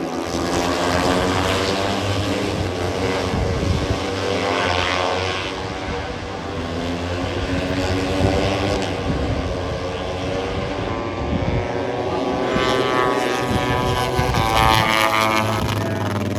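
Moto3 racing motorcycles' single-cylinder four-stroke engines passing at high revs, several engine notes sweeping up and then down in pitch as the bikes go by. There are two louder waves of passing bikes, about four seconds in and again about twelve to fifteen seconds in.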